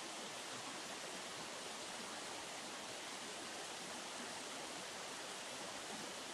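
River water rushing steadily, an even hiss with no change.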